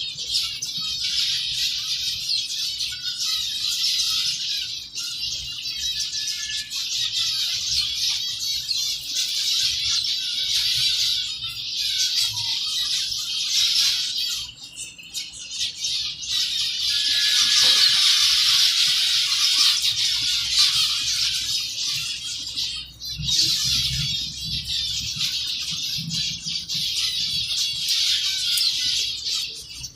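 A colony of zebra finches chattering nonstop, a dense chorus of short calls with some wing flutter. It swells loudest a little past halfway.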